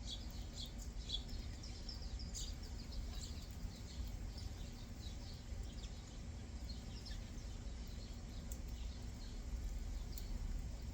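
Small songbirds chirping: many short, high chirps, busiest in the first few seconds and more scattered after, over a low steady background rumble.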